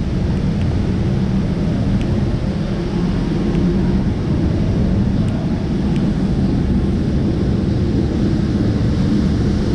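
Steady low rumble of motor traffic, even throughout, with no clear single event standing out.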